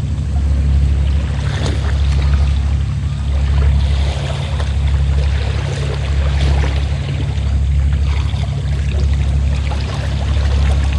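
A fishing boat's engine running steadily with a low hum, under sea water washing and splashing against the hull or shore in swells every second or two.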